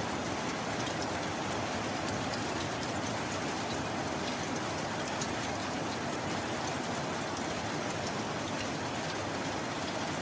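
Steady heavy rain, an even hiss with scattered drops ticking through it.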